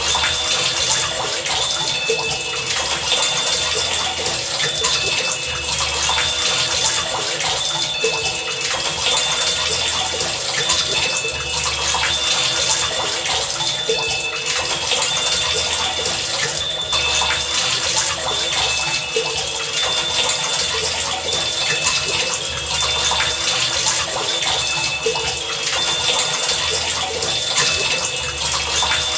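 Heavy rain falling steadily, with short high-pitched tones and low pulses repeating over it in a loose rhythm.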